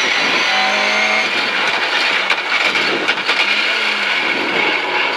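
Rally car engine running hard at high revs as the car accelerates, heard from inside the cockpit over road and gearbox noise.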